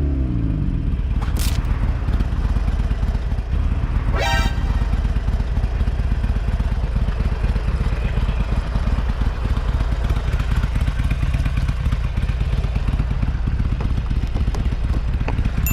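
Motorcycle riding on the road, its engine rumbling steadily under heavy wind noise on the rider's camera microphone. A short vehicle horn beep sounds about four seconds in, with a sharp click shortly before it.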